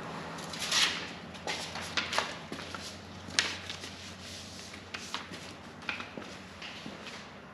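Irregular light knocks, scrapes and rustles of things being handled and moved about, with a few sharper clicks, over a faint steady low hum.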